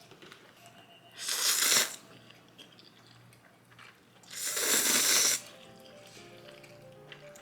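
Two loud bursts of close-up eating sounds, each about a second long, one a little over a second in and one about halfway. Soft background music with plucked-sounding notes comes in after the second burst.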